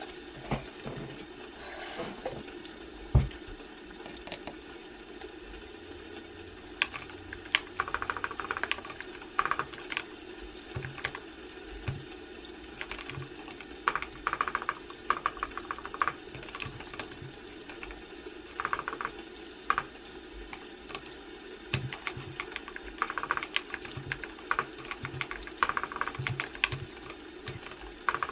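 Typing on a computer keyboard: flurries of quick key clicks broken by short pauses, over a steady low background hum.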